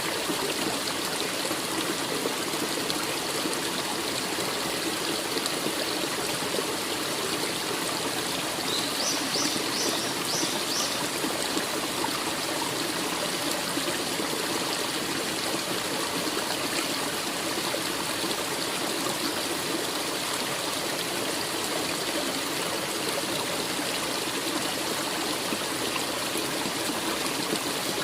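A forest stream running steadily over rocks. About nine seconds in there is a short run of about five high chirps.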